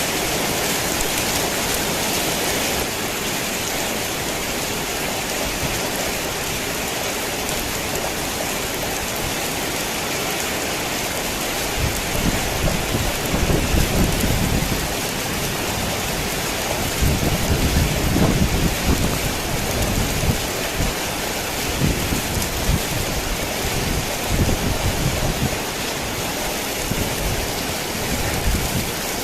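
Heavy rain falling on a tin roof in a steady hiss, with thunder rumbling in rolling swells from a little under halfway through until near the end.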